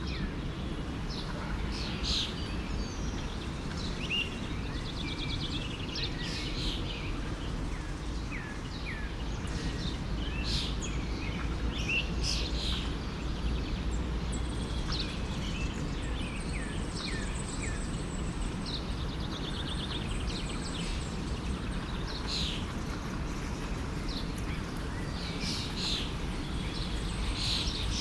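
Forest stream running steadily, with many small birds chirping and singing over it in short, scattered calls.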